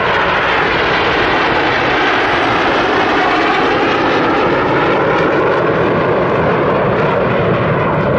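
Formation of BAE Hawk T1 jets flying past, a loud steady jet noise whose pitch bands slide slowly as the aircraft pass.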